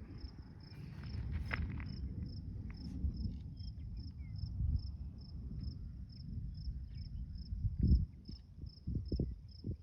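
A cricket chirping steadily, about three to four high chirps a second, over a low uneven rumble, with a few low thumps near the end.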